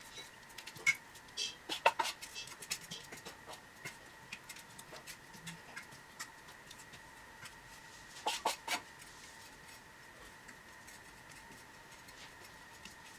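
Plastering trowel or scraper clicking and scraping as filler is worked onto a wall, in quick clusters about two seconds in and again about eight seconds in, with scattered light ticks between, over a faint steady high hum.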